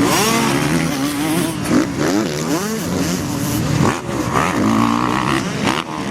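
Motocross motorcycles racing, their engines revving up and down over and over, with more than one bike heard at once.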